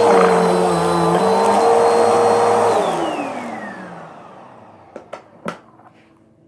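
A household appliance's electric motor running at a steady high speed, then switched off about three seconds in and winding down with a falling whine. A few light clicks follow near the end.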